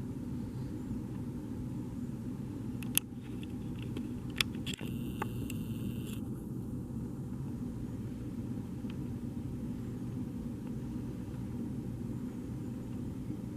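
Steady low rumble of outdoor background noise, with two sharp clicks about three and four and a half seconds in, followed by a brief higher-pitched sound lasting under two seconds.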